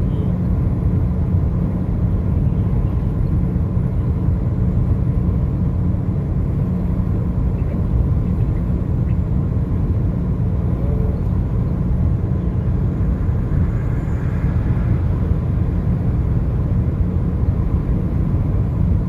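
Steady low rumble of a car driving along a highway: tyre and engine noise with no distinct events.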